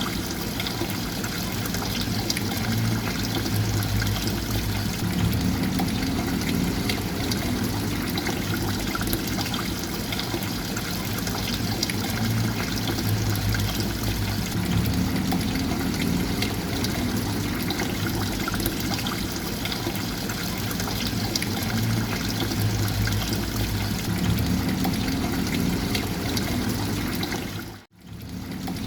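Steady running, trickling water with a low rumble underneath. It drops out suddenly near the end and fades back in within a second.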